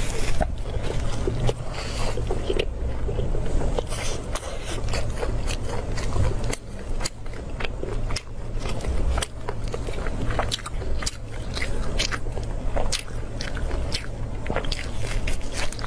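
Biting, tearing and chewing cooked beef, with many irregular wet, crackly clicks from the mouth and from the meat being pulled apart in plastic-gloved hands.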